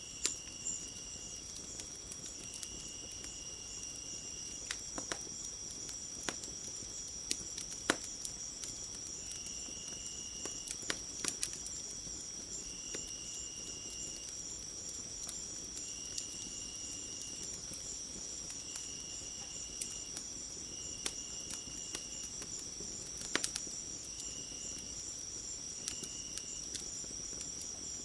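Crickets chirping: a steady high-pitched chorus, with a lower trill coming in bursts of about a second every couple of seconds. Scattered sharp crackles of a wood fire sound over it.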